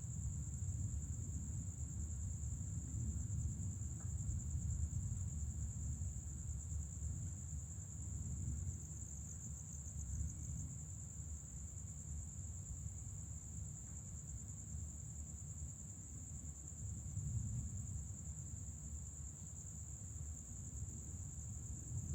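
Night insects trilling steadily at one high pitch, over a low, uneven rumble that swells and fades.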